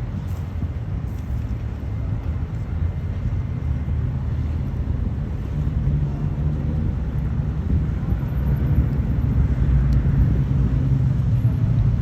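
Low, steady engine rumble that grows louder from about halfway through.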